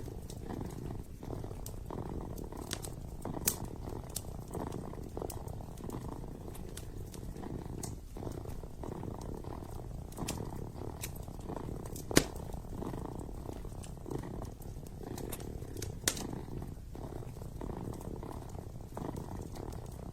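Kitten purring steadily and closely, with a wood fire crackling: scattered sharp pops, the loudest about twelve seconds in.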